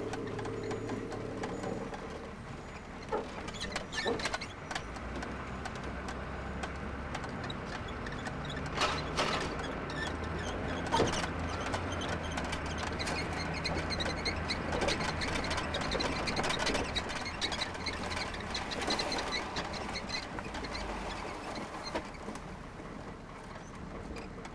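John Deere riding lawn mower being towed at low speed: steady running noise with frequent clicks, rattles and squeaks.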